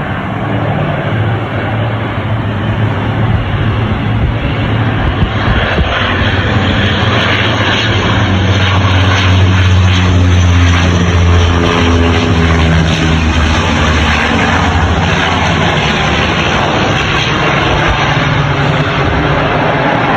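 Airplane engine droning loudly as the aircraft passes close, the sound swelling to its loudest around the middle and staying strong to the end.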